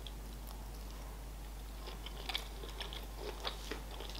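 A person chewing a mouthful of sushi roll close to the microphone: soft mouth clicks, few at first and more frequent from about halfway.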